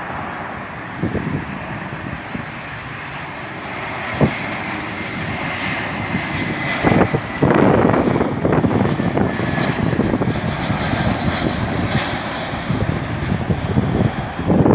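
Aeroplane engines growing louder as an aircraft passes close by, with a high whine about halfway through, then staying loud.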